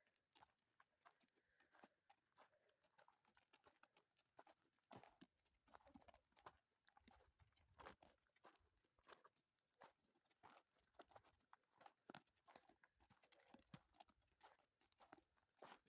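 Faint, irregular clip-clop of a donkey's hooves walking over stony ground, about one or two taps a second.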